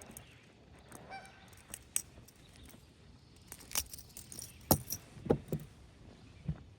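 Scattered sharp clicks and knocks from fishing tackle being handled, the loudest a few sharp taps past the middle. A short pitched call is heard about a second in.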